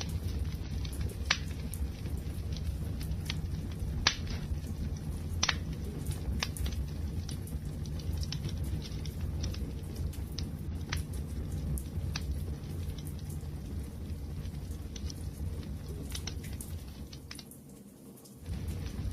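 Wood fire crackling: scattered sharp pops and snaps over a steady low rumble. It dies down briefly near the end, then picks up again.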